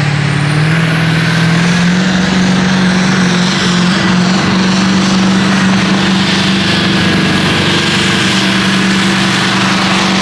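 Pulling-tractor diesel engine revving up over the first couple of seconds, then held steady at high revs, with a thin high whine above the engine note.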